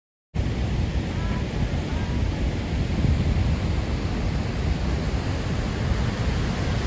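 Wind buffeting the microphone, a steady low rumbling roar that cuts in abruptly just after the start.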